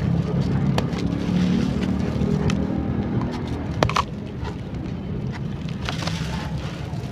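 Charcoal pieces crunching and crackling as they are crumbled in water: a few sharp cracks, the loudest a double crack about four seconds in, over a low steady rumble.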